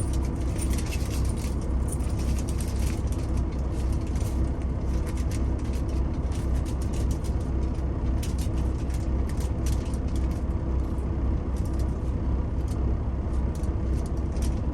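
Steady low hum of the truck's engine running, with frequent small clicks and scrapes of a butter knife cutting through raw chicken breast.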